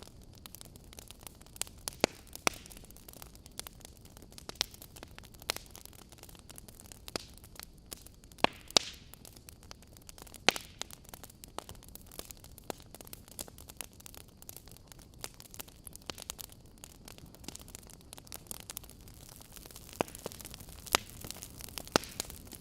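Fireplace crackling: irregular sharp pops and snaps of burning wood over a soft, steady hiss, with a few louder pops scattered through.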